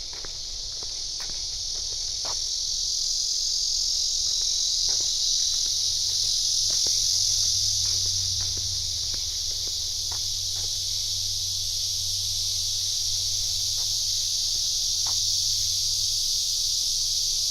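A steady, high-pitched chorus of insects, swelling over the first few seconds and then holding, with a few faint clicks scattered through it.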